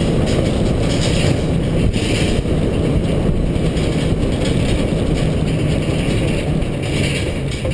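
International 4300 dump truck on the move: its diesel engine running steadily under a constant rumble of road and driving noise.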